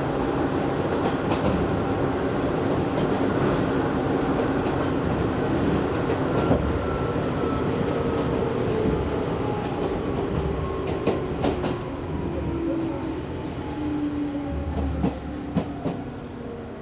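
Izu Hakone Railway Series 3000 resistance-control electric train heard from inside the car as it runs along the track, with a few sharp clicks from rail joints. A faint motor whine falls steadily in pitch and the running noise eases off toward the end as the train slows.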